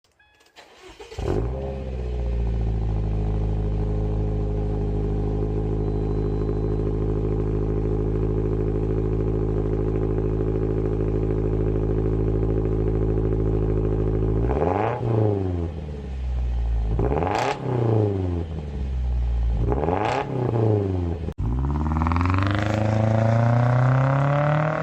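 Subaru Impreza G4's 2.0-litre flat-four engine breathing through a Fujitsubo Authorize RM aftermarket exhaust: it starts about a second in with a short flare, then settles into a steady, loud idle. After about 14 seconds it is revved three times in quick blips, then held at a slowly rising rev near the end. The exhaust is made for the WRX STI and is too loud to pass Japanese vehicle inspection.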